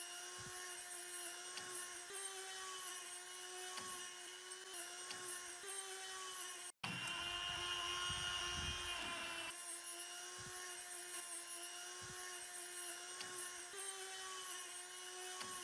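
A small electric power tool running at a steady speed, its motor giving a constant whine. It breaks off for an instant about seven seconds in, then runs on.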